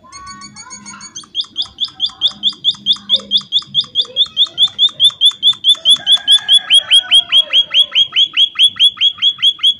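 Munia (emprit) calling: a rapid, even series of sharp high chirps, about five a second, starting about a second in and cutting off suddenly at the end. Softer, lower squeaky chirps come before it.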